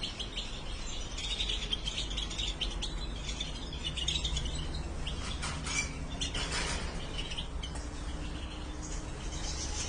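Caged goldfinches (colour mutations) chirping and twittering lightly and continuously, with a few brief rustles near the middle.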